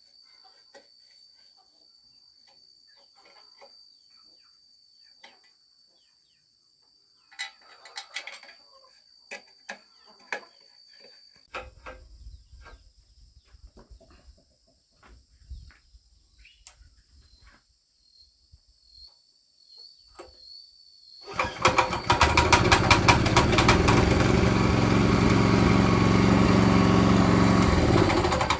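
A small engine starts suddenly about three-quarters of the way in and runs loud and steady to the end. Before it there is a steady high-pitched insect trill and scattered light clicks.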